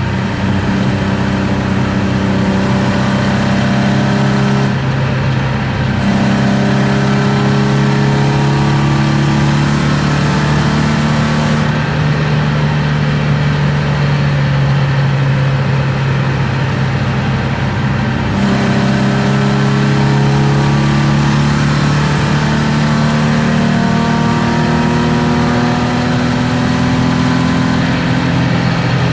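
BMW E36 325i's M50B25 inline-six, with aftermarket headers and exhaust, running hard at speed, its pitch rising slowly through long pulls. The tone changes briefly a few times, about five, twelve and eighteen seconds in.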